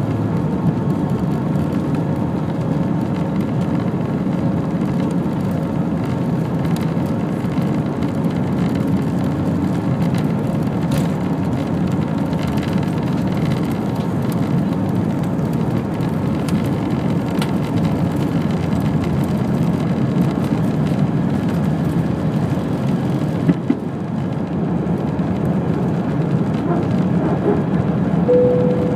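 Airbus A319 jet engines at takeoff power heard from inside the cabin: a steady low rush with faint engine tones running through it. A brief tone sounds near the end.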